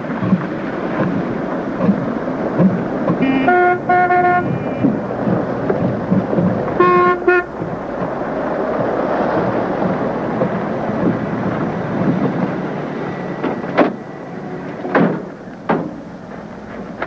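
Vehicle traffic noise with a car horn: two short honks about three and a half seconds in and one more about seven seconds in. A few sharp knocks near the end.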